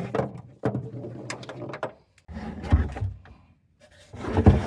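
Objects being handled and shifted about, with irregular knocks, clunks and scraping in three bunches.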